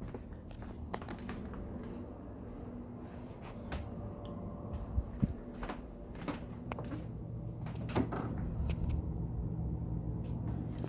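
Steady low hum of a Tempstar central air conditioner running in cool mode, growing louder toward the end. Scattered clicks and knocks, like a door and handling noise, sound over it.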